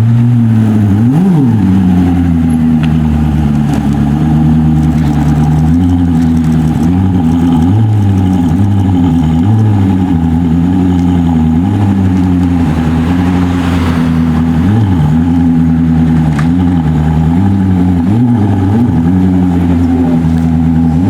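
Car engine running steadily at low revs, its pitch rising and falling slightly, with a brief swell and fall in pitch about a second in and again near the middle.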